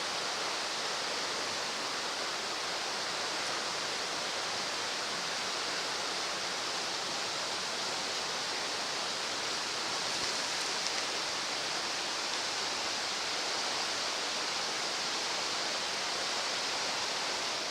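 River rapids rushing steadily, a constant even wash of water noise.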